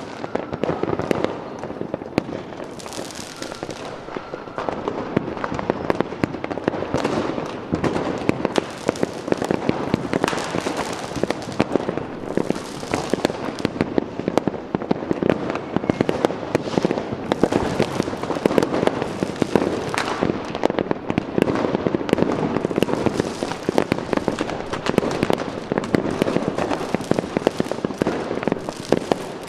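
Fireworks going off in a dense, continuous barrage: many overlapping bangs and firecracker crackles with no pause.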